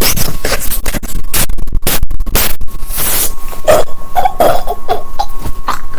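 Loud, irregular scraping, rustling and bumping of things handled close to the microphone, with a few short vocal sounds about two-thirds of the way through.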